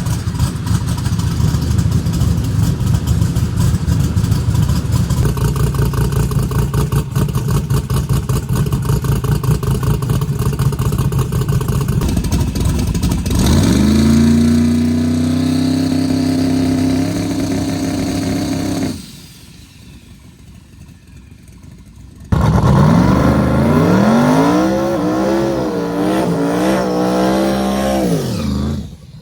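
A roughly 2,000-wheel-horsepower Chevrolet Camaro drag car's engine. For about thirteen seconds it runs loud and choppy, then the revs climb sharply and hold at full throttle. After a sudden drop to a few quieter seconds, it comes back abruptly at full throttle, the pitch climbing and wavering, then falls away near the end.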